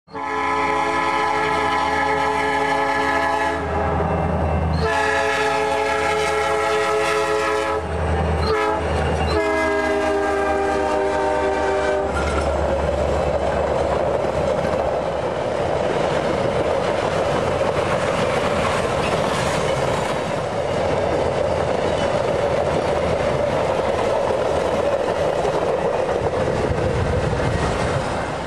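Alaska Railroad freight train's air horn blowing the grade-crossing signal, two long blasts, a short one and a final long one that slides slightly down in pitch, followed by the steady rumble and rattle of flatcars rolling past on the rails.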